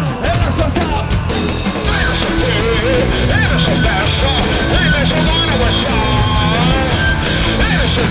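A rock band playing loud, driving punk-style rock live, with pounding drums and a full band throughout.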